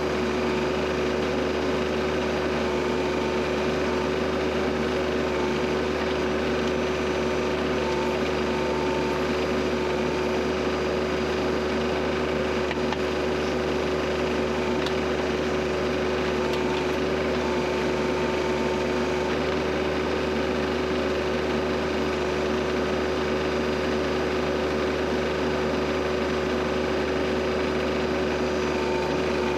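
Kioti CS2520S subcompact tractor's three-cylinder diesel engine running steadily at a constant speed while it powers the backhoe digging out a stump.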